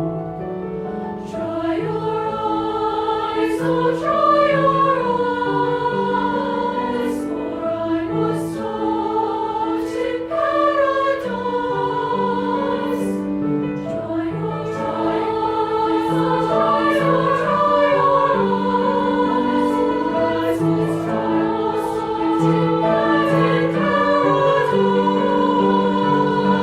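A high school choir singing in chords, the voices holding sustained notes that move from chord to chord, with crisp consonants sounding together.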